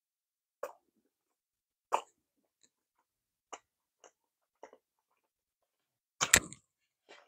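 Close-miked wet mouth sounds of a person chewing a soft Japanese wagashi confection with red bean paste filling: a few separate smacks spaced about a second apart, then a louder cluster about six seconds in as the piece goes back into the mouth.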